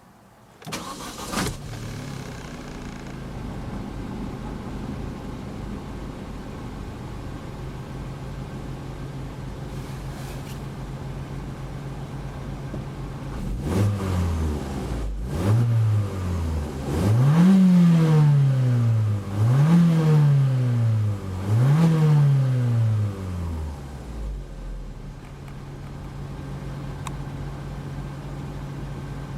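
Opel Astra OPC's stock Z20LEH 2.0-litre turbocharged four-cylinder petrol engine starting about a second in and settling to a steady idle, heard from inside the car. It is then blipped five times, the last three revs higher and louder, before dropping back to idle.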